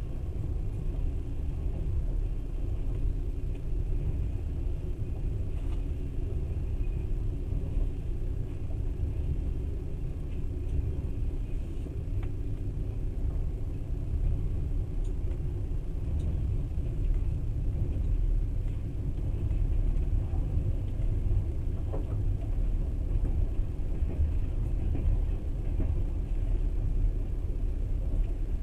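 Passenger train carriage in motion, heard from inside: a steady low rumble of wheels on rails, with a faint knock now and then.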